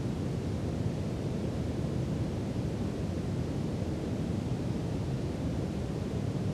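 Brown noise: a steady, deep, even rumble-like hiss, strongest in the low end and tapering off toward the highs, with no changes.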